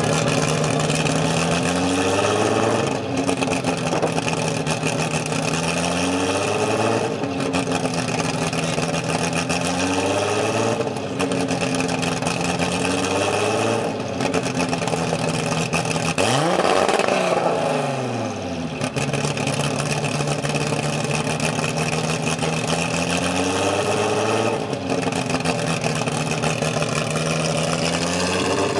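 Big single-turbo Toyota Supra inline-six idling unevenly, its pitch sagging and recovering every few seconds. About halfway through the throttle is blipped once, and the revs shoot up and fall back.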